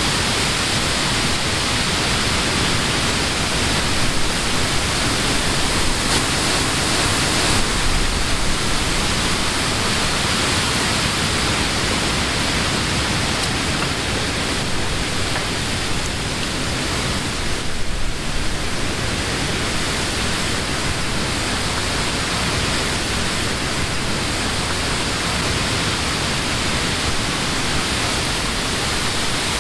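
Wind blowing through leafy summer trees: a steady rush of rustling leaves that swells a little in gusts, with a brief lull about eighteen seconds in.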